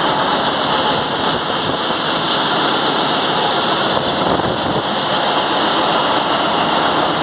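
Loud, steady din of a cargo ship's engine room, with its machinery running continuously.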